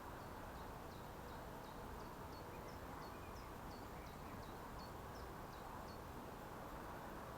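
Steady rush of a small stream, with a small bird repeating a short, high call note about three times a second, which stops shortly before the end.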